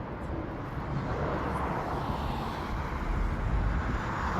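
Outdoor traffic: a motor vehicle's engine rumble and road noise, growing steadily louder as it approaches.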